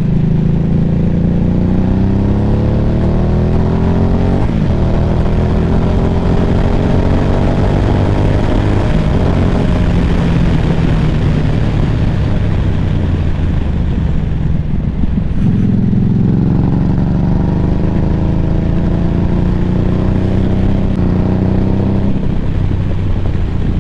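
Harley-Davidson motorcycle's V-twin engine running under way, its pitch climbing as it accelerates through the first few seconds and again later on, with steady wind rush.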